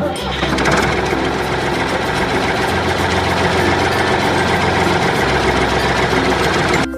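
A mechanical engine-like running sound, steady and rough, that starts abruptly and cuts off abruptly; low background music notes continue underneath.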